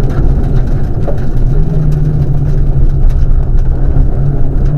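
Rally car's engine running hard at speed on a tarmac stage, heard from onboard. Its pitch holds fairly steady, easing briefly about a second in, over heavy road and wind rumble.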